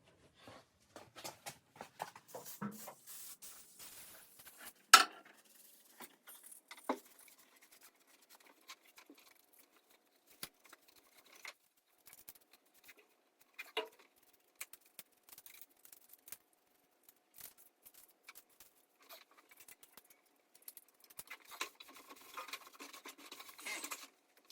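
Scattered clicks, scrapes and knocks of hand-cleaning debris out of an old car's engine bay, with a sharp knock about five seconds in and a few lighter ones later. Near the end comes a few seconds of rustling hiss.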